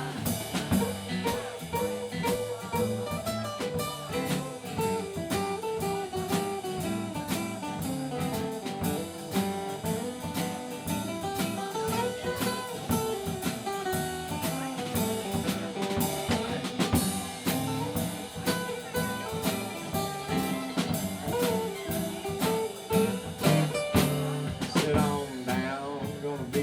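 Live band playing an instrumental break in a blues-tinged country-rock song: a drum kit keeps a steady beat under a melodic guitar line.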